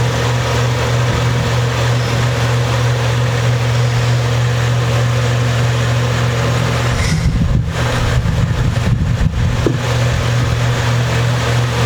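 Electric room fan running steadily: an even rushing hiss over a strong low hum. About seven to ten seconds in, an uneven low rumbling briefly breaks into it.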